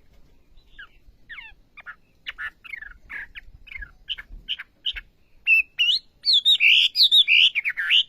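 Wambi bird singing: a run of short, down-slurred chirps, a few a second, that grows louder. About five and a half seconds in it breaks into a loud, fast, warbling phrase.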